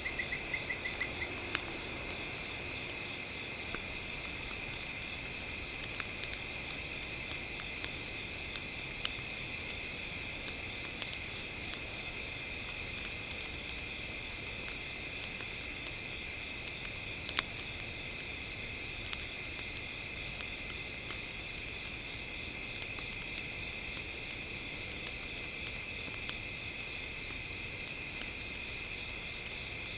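Campfire crackling with sparse small pops and one louder pop about two-thirds of the way through, over a steady high chirring of night insects.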